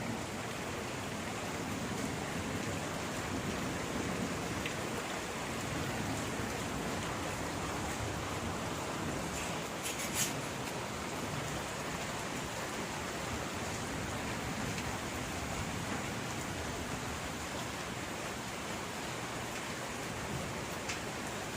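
Steady rain falling, an even hiss, with one sharp tick about halfway through.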